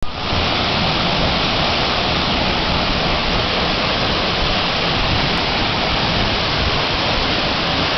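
Waterfall: falling water rushing loudly and steadily.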